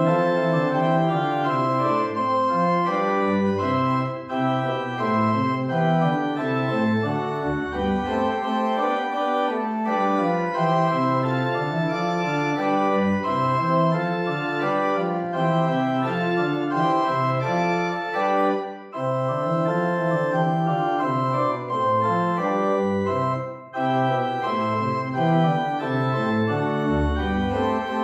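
Organ music: sustained chords over a moving bass line, with brief breaks between phrases, played as the service closes.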